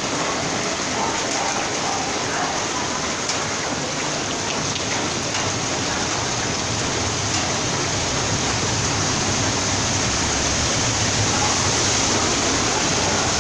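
Heavy rain falling as a steady, even hiss of rain on surfaces, getting slightly louder and fuller toward the end.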